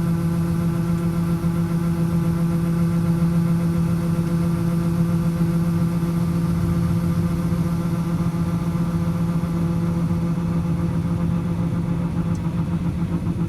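Farm machinery engine running at a steady speed, a constant even hum that does not rise or fall.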